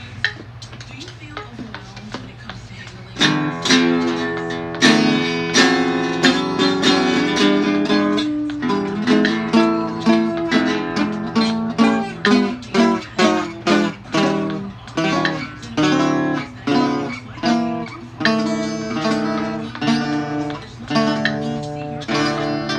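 Acoustic guitar playing, plucked and strummed chords, coming in loudly about three seconds in over a quieter start with a low steady hum.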